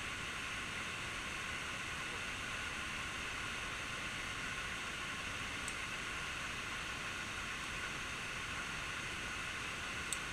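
Steady rushing of a waterfall, an even hiss of falling water with no change in level, and a couple of faint ticks.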